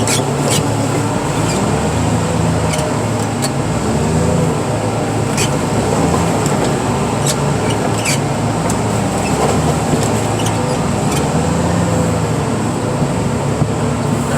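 Heavy equipment's diesel engine running steadily under hydraulic load, its pitch rising and falling every couple of seconds, with scattered sharp ticks over it.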